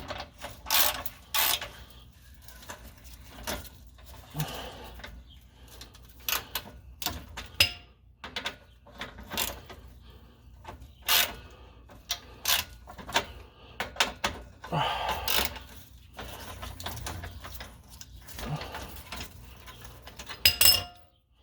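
Irregular metallic clicks, knocks and scrapes of hand tools working on a car's exhaust fittings from underneath, in short clusters with brief pauses between them.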